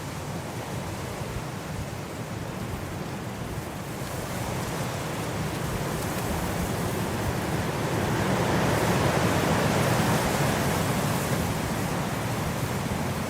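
Blizzard wind blowing in a steady rush, swelling into a stronger gust about two-thirds of the way in and easing slightly near the end.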